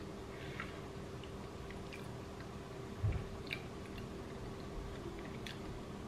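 Close-up chewing of a mouthful of sushi, with soft, wet mouth clicks scattered throughout. A short, dull low thump about three seconds in.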